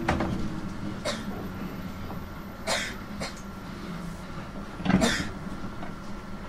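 JR 719 series electric train heard from on board: a steady low running hum, broken by several sharp knocks and clatters, the loudest about five seconds in.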